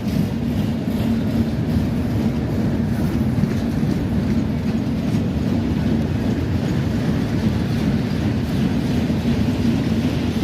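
Freight train cars rolling past close by: a loud, steady rumble of wheels on the rails.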